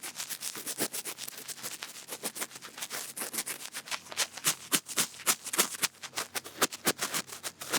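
Ear-picking ASMR sounds: quick scratching and rubbing strokes, several a second and uneven in loudness, that stop abruptly near the end.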